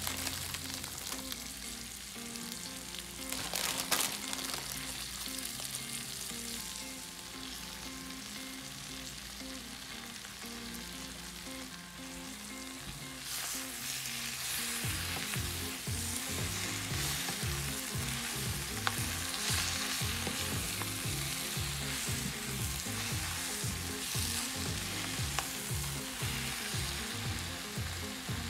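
Fresh baby spinach sizzling in hot oil in a frying pan over fried onion, garlic and green chillies as it wilts. The sizzle grows louder about halfway through as the leaves are stirred with a wooden spatula.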